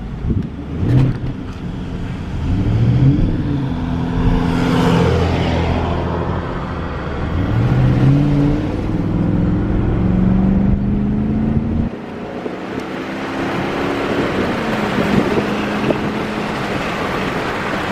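Car engine accelerating while driving, rising in pitch twice as it pulls up through the gears and then holding steady. About twelve seconds in the engine eases off, leaving mostly road and tyre noise.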